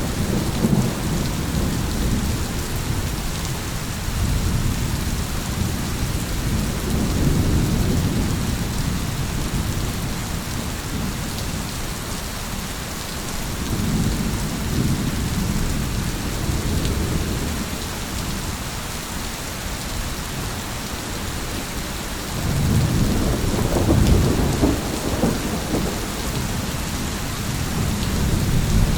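Steady heavy rain hissing throughout, under rolling thunder that rumbles low and swells and fades several times, most strongly from about 22 seconds in and again near the end.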